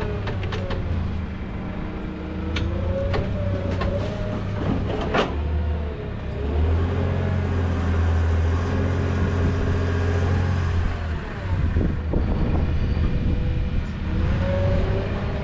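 Forklift engine running, louder for several seconds in the middle, with a few sharp clanks in the first five seconds.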